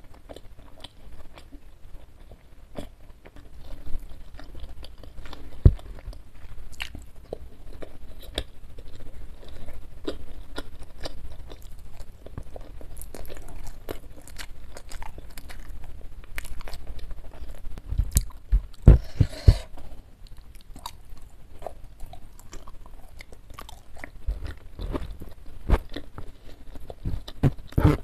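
Close-miked chewing and crunching of crispy fried chicken and its crumbs, with many small crackles and mouth clicks. A run of louder crunches comes about eighteen to twenty seconds in.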